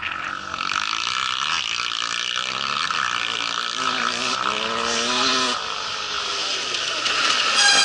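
Rally motorcycle engine at high revs as the bike passes, its pitch climbing for a couple of seconds about midway and then dropping, over a loud rushing noise.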